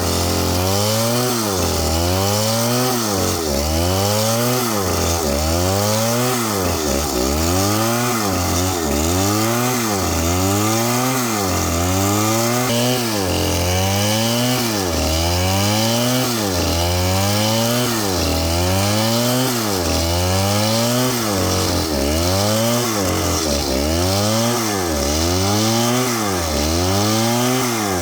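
Chainsaw engine revving up and down about once a second, over and over, its pitch rising and falling in a steady rhythm.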